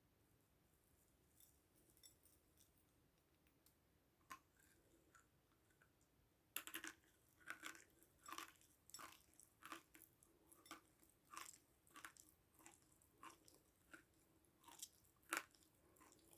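Close-miked chewing of something crunchy. A few faint mouth clicks at first, then from about a third of the way in a steady run of crunching chews, about two a second.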